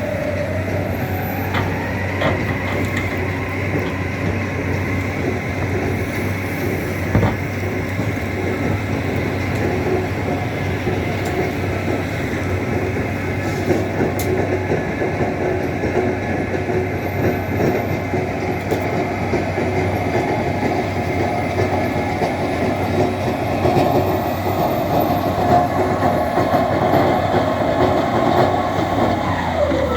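Tractor loader engine revving up and running hard for most of the stretch, its pitch dropping back near the end.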